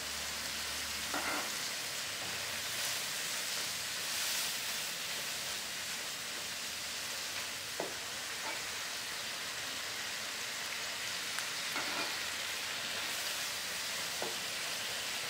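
Oysters and scrambled egg sizzling steadily in hot oil in a wok as they are stir-fried with a spatula, with a few light knocks of the spatula against the pan.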